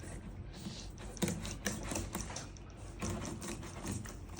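Knife scraping and sawing at a walleye's skin and flesh in short, uneven strokes.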